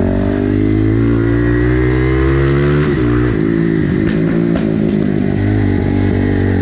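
Supermotard motorcycle engine under way, its pitch climbing steadily under throttle for about three seconds, then falling as the throttle is shut, and running on at lower revs with an uneven, wavering note.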